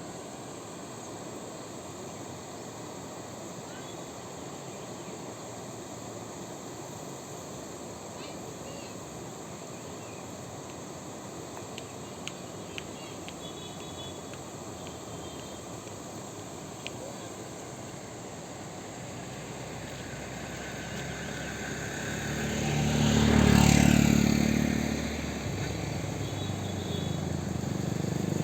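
Steady outdoor background with insects chirping, then a motor vehicle approaches and passes close by about three-quarters of the way through, its engine noise rising and then fading; another vehicle comes up near the end.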